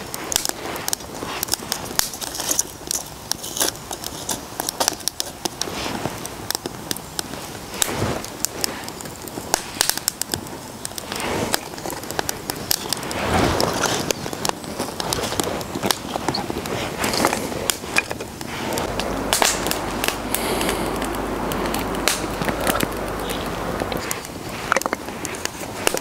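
Wood fire burning in a Bushbox XL hobo stove, crackling with frequent, irregular sharp snaps over a steady hiss.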